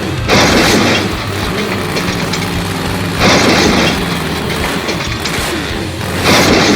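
Monster truck engine sound effect idling with a steady low hum, broken three times, about three seconds apart, by loud half-second bursts of noise.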